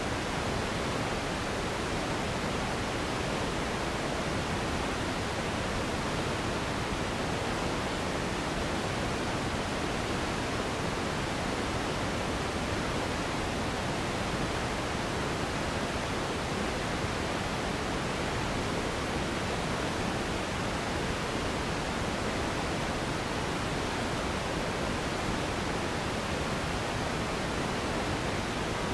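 Steady synthetic pink noise: an even, unchanging hiss, fuller in the low and middle range than white noise.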